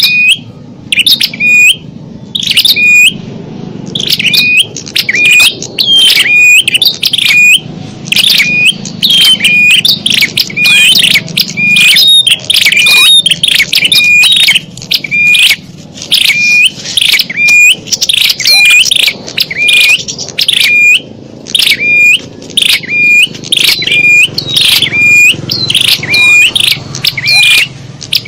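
Small-bird lure call (suara pikat): one chirp repeated over and over, about one to two a second, each a quick rising sweep ending in a short high steady note, played as a loop to draw in small birds.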